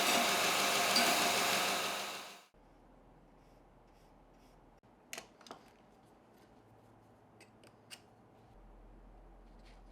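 A milling machine running steadily and loudly, which stops suddenly about two and a half seconds in. A few light clicks and taps of small tools follow in the quiet.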